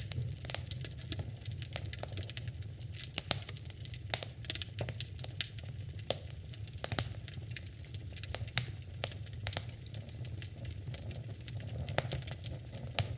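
Wood fire crackling and popping in a fireplace: irregular sharp pops, a few loud, over a steady low rumble of the flames.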